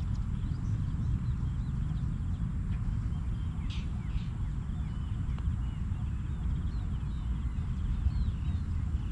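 A steady low rumble with many short, faint bird chirps above it, including two brighter chirps about four seconds in.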